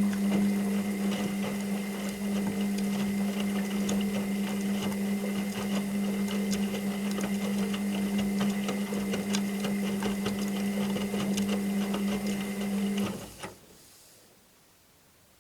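Washing machine motor running, a steady whirring hum with a higher whine and a dense rattle of small clicks, stopping abruptly about 13 seconds in.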